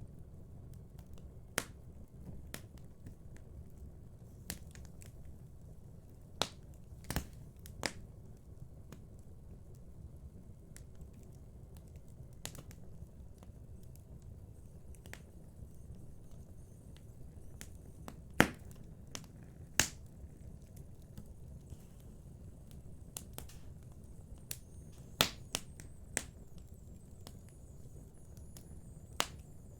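Wood fire in a fireplace crackling: scattered sharp pops at irregular intervals, a few louder snaps past the middle, over a steady low rumble of the flames.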